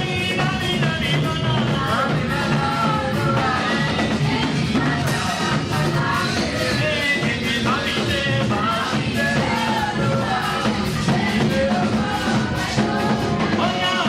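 Church praise music: voices singing a praise song over a live band with a steady beat.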